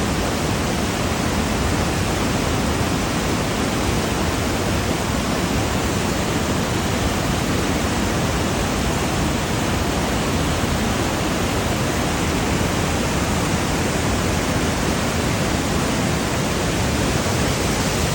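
Waterfall, its rushing water making a steady, even noise throughout.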